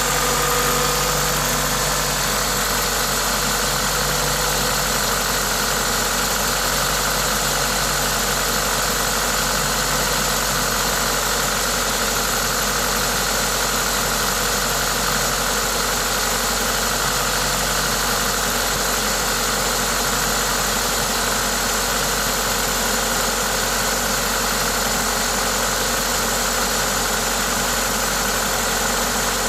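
Toyota 2ZZ-GE 1.8-litre four-cylinder engine idling steadily, with a hiss from an aftermarket induction kit over the engine sound. The owner presents this noise as normal for the engine.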